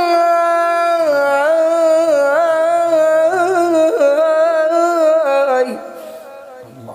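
A man chanting a long, drawn-out melismatic line in the Iraqi lament style, voice alone, with wavering ornaments on held notes; it fades away about five and a half seconds in.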